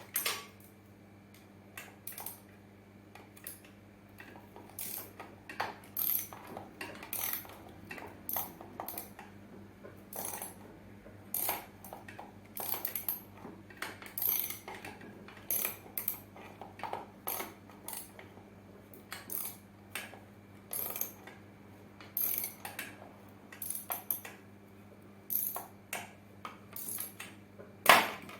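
Hand tools and small metal parts of a mobility scooter clicking and clinking at irregular intervals during repair work, with the sharpest click near the end. A steady low electrical hum lies underneath.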